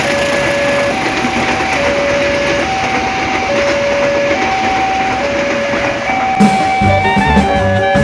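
Level-crossing warning signal sounding an alternating two-tone chime, one tone about every 0.85 seconds, over the rolling noise of a passing passenger train. About six seconds in, music with a bass line and guitar comes in.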